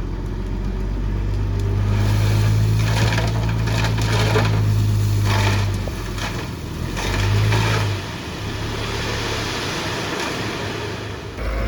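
Heavy diesel engine of a construction machine working under load, getting louder about two seconds in and easing back just before eight seconds, with gritty crunching of loose earth through the loud stretch.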